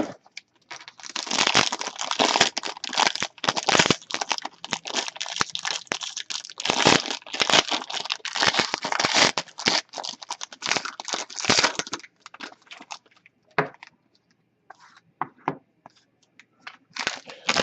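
Wrapper on a hockey card pack being torn open and crinkled: a dense crackling run of about ten seconds, then scattered light clicks and rustles.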